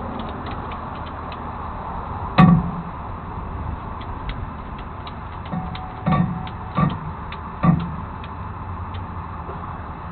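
Light, fairly regular ticking over a steady low rumble, broken by a loud metallic clunk about two seconds in and three more clunks between six and eight seconds in.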